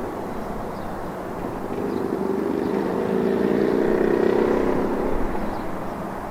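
Diesel locomotive engine hum from a passing freight train, a steady low drone with several pitched tones that swells about three to five seconds in and then eases.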